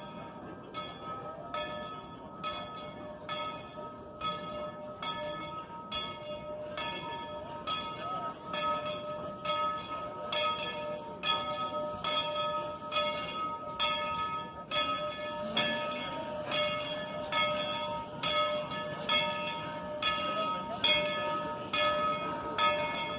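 Steam locomotive's bell ringing steadily, about three strokes every two seconds, growing louder about a third of the way in.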